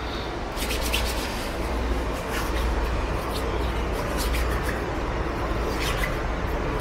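Steady low rumble and hiss of a moving Amtrak double-deck passenger train, heard inside the coach, with a few light clicks and rattles here and there.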